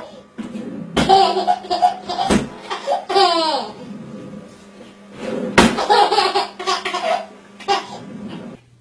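Hearty laughter in several bouts, with a few sharp knocks along the way.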